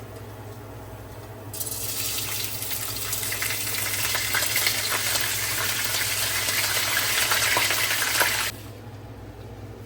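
Water running, starting about a second and a half in, growing slightly louder, and cutting off sharply about seven seconds later.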